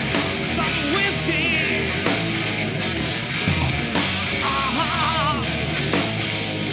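Live rock band playing an instrumental passage: distorted electric guitars and drums on a steady beat, with high lead-guitar notes bent and wavering in vibrato.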